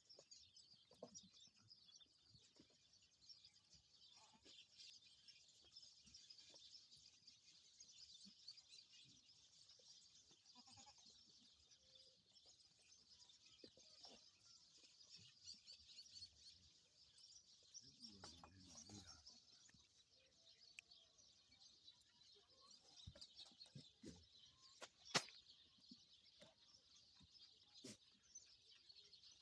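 Faint bleating of young goat kids, with one plainer bleat about two-thirds of the way through, over a steady high hiss. A single sharp click sounds near the end.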